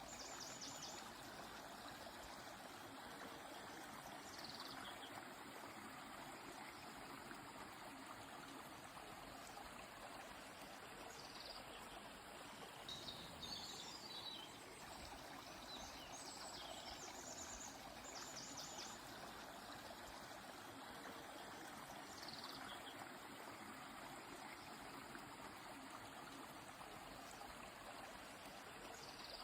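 River water flowing with a steady, faint rush. Small birds chirp over it now and then: a rapid trill at the start and again about 17 seconds in, and short falling notes in between.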